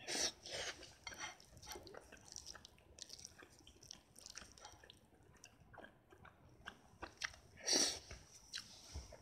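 A person chewing a mouthful of kyabetsuyaki (cabbage pancake) close to the microphone, with irregular soft crunches and wet mouth sounds. There are two louder bursts, one at the start and one near the end.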